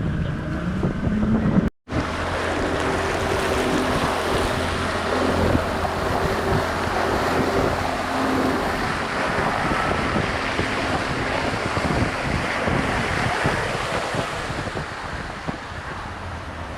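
Motorboat running steadily across open water: a low engine drone under rushing water and heavy wind noise on the microphone. The sound cuts out for a moment about two seconds in.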